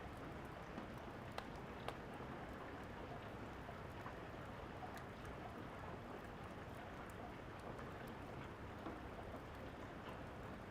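Steady rain hissing, with scattered small clicks and pops of a crackling wood fire mixed in.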